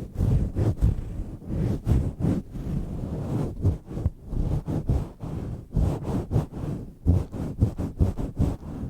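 Microphone cover being swirled and pumped against the microphone: a deep, rough rubbing rumble that pulses irregularly several times a second.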